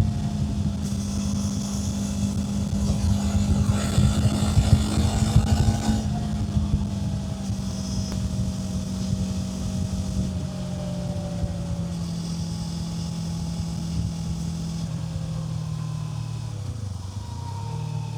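Kawasaki Z500 parallel-twin engine running under way, a steady engine note with wind rush that is strongest a few seconds in. The engine note steps down slightly about halfway through and dips briefly near the end.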